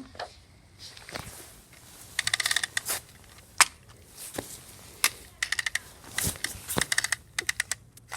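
Small hard toy train parts clicking and rattling against each other in several quick runs, with single clicks between.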